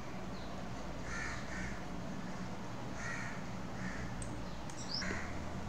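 Faint crow-like caws, a few short calls, some in quick pairs, over a low steady hum.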